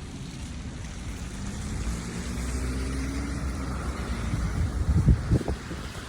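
A motor vehicle running and passing with a low rumble, its engine pitch rising slightly; a few heavy low thumps about five seconds in.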